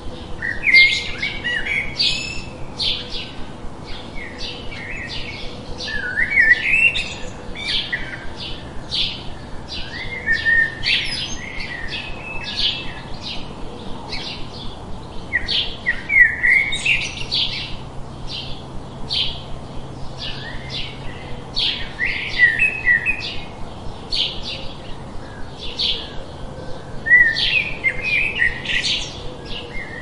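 Songbirds chirping and singing without pause: a stream of quick, high chirps with a short warbled phrase every few seconds.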